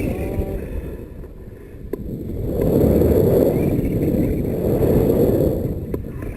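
Wind buffeting the microphone in flight: a low rumbling rush that dips, then swells into a louder gust for about three seconds, with a couple of faint clicks.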